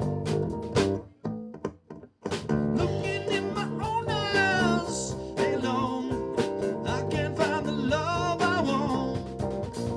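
Band playing an instrumental break, guitar to the fore. The sound drops out almost completely for about a second shortly after the start, then the music comes back in.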